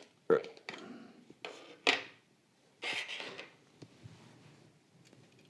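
Small packaging being handled on a desk: a few sharp knocks and taps, the loudest about two seconds in, then a brief rustle and a small click.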